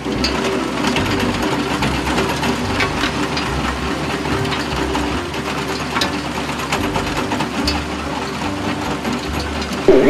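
Construction-vehicle engine running steadily, with a fast mechanical rattle and clatter over a constant hum.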